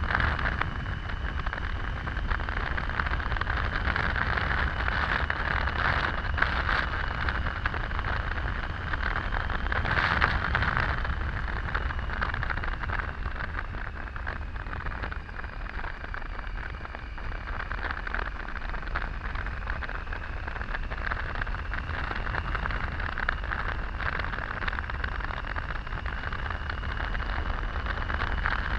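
Triumph Tiger 800 motorcycle riding at road speed: a steady rush of wind and road noise over a low engine rumble, with a faint steady whine that sags slightly in pitch midway and comes back up. A louder swell comes about ten seconds in.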